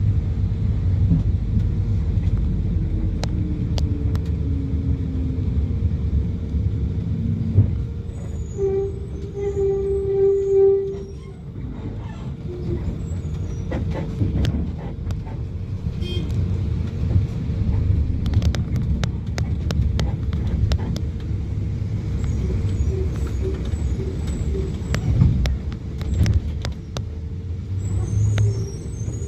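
Road traffic rumbling past, with one engine's pitch falling slowly as it goes by, and a vehicle horn held for about two seconds around ten seconds in.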